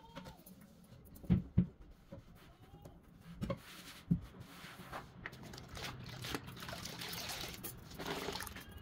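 Household cleaning and tidying sounds: a few light knocks as things are handled and set down, then several seconds of steady hissing over a low hum.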